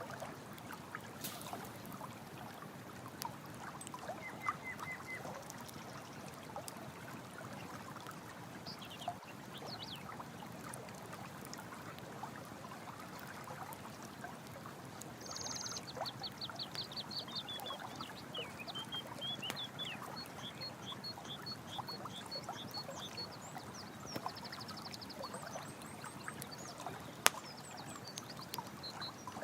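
Running stream water with a crackling campfire, its small clicks and a sharp pop near the end. Over it come runs of rapid high chirps, once early and repeatedly from about halfway on.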